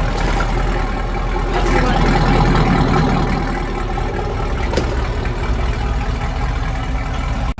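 Car engine idling steadily through a straight-piped exhaust with J-pipes, a constant low rumble. A single sharp click comes about five seconds in.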